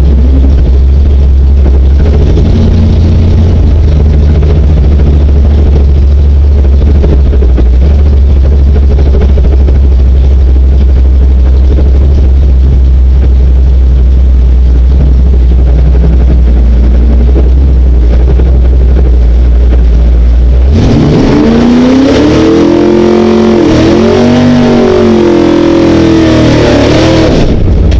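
Drag car's engine idling loudly, heard from inside the cabin. About 21 seconds in it is revved up and down in quick blips for several seconds, then drops back to idle near the end.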